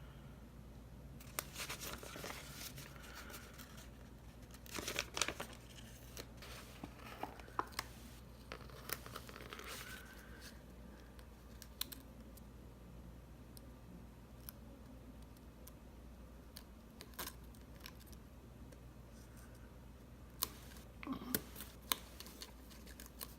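Planner stickers being peeled from their backing sheet and pressed onto paper pages, with faint paper rustling and small taps in scattered short bursts.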